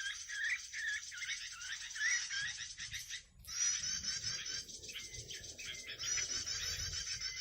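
Small songbirds chirping and warbling in a fast, dense, continuous chorus, with a brief break about three seconds in.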